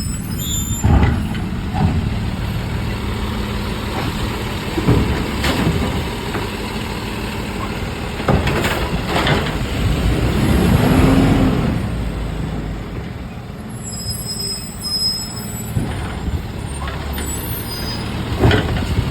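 Garbage truck engine running with several sharp metallic clanks from the collection work. About ten seconds in, the engine speeds up and settles back, the loudest part.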